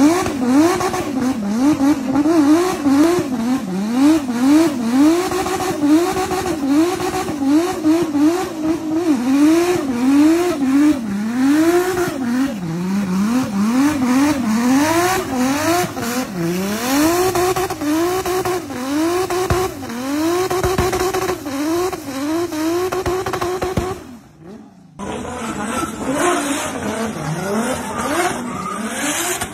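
Turbocharged Toyota 2JZ inline-six in a Nissan C33 Laurel revving hard in repeated climbs and drops, about once or twice a second, while the rear tyres spin and squeal in a burnout. The sound briefly drops out near the end, then the engine picks up again.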